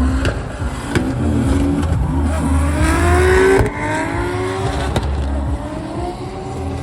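Drift car's engine revving hard under a heavy low rumble, its pitch climbing to a peak about three and a half seconds in, then dropping sharply and rising again more briefly.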